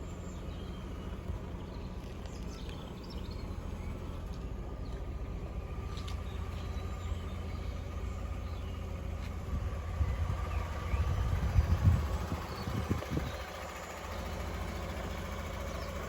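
Fiat 500's 0.9 TwinAir two-cylinder turbo engine idling steadily, with a louder, uneven low rumble for a few seconds near the end. Faint bird chirps sound now and then.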